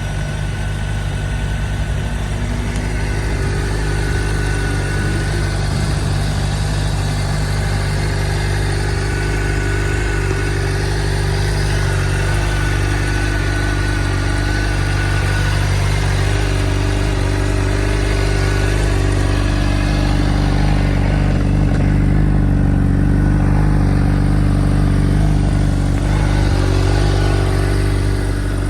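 2016 Honda CBR600RR's inline-four engine idling steadily, with no clear revs.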